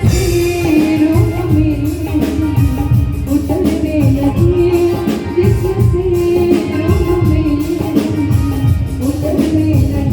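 A live band playing a song with a melody line over steady drum beats, with a singer's voice at times.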